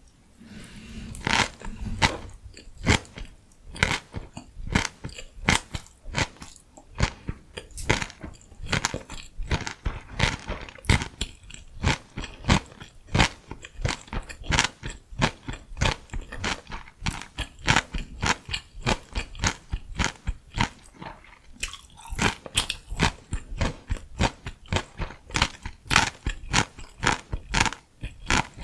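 Close-miked chewing of crunchy food, a steady run of crisp crunches about two a second, with a brief lull about three quarters of the way through.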